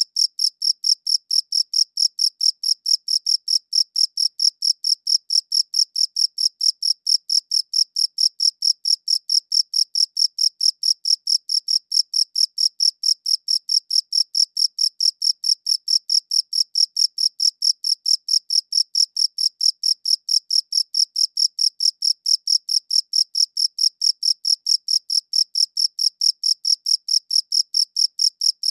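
Cricket chirping in a steady, even rhythm of short high-pitched chirps, several a second, without a break.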